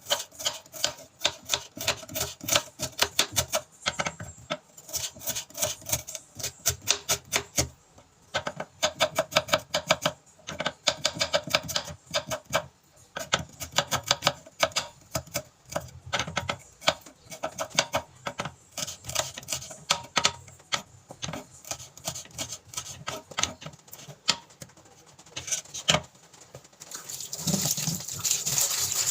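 Kitchen knife chopping on a cutting board: quick runs of sharp taps, several a second, with short pauses between runs. A steady rushing noise comes in near the end.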